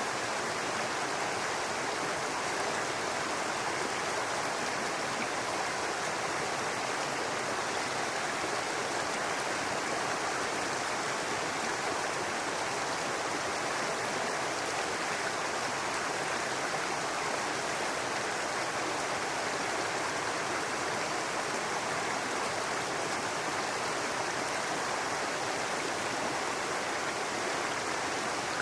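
Babbling brook: running water makes a steady, even rush with no breaks or changes.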